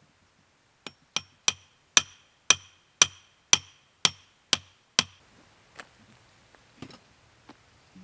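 About ten hammer blows on metal, roughly two a second, each with a short metallic ring; the first couple are lighter, the rest harder, and they stop about five seconds in.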